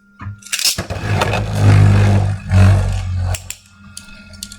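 Beyblade spinning tops whirring and grinding against each other and the plastic stadium. The sound is loud from about a second in, then drops away sharply after about three and a half seconds.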